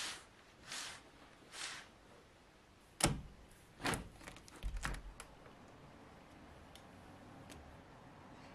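Small household handling noises: a few soft swishing strokes, then a sharp click, a second click, and a quick cluster of clicks with a dull thump about five seconds in.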